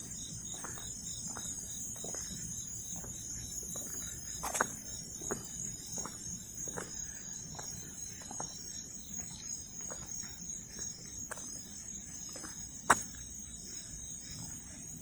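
A steady, high-pitched chorus of night insects, with scattered small knocks and two sharper clicks, one about four seconds in and the loudest near the end.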